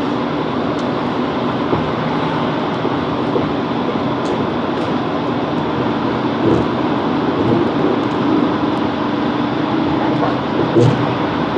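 Class 165 Networker Turbo diesel multiple unit running at speed: a steady engine drone over wheel-and-rail noise. A few sharp knocks come in the second half.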